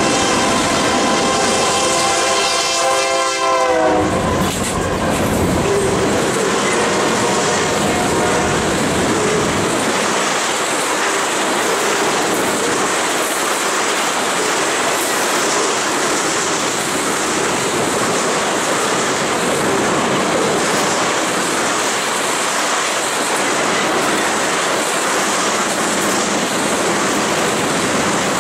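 BNSF freight locomotive's air horn sounding a chord that dips in pitch and cuts off about four seconds in as the locomotives pass, followed by a long string of oil tank cars rolling by at track speed with a steady clatter of wheels on rail.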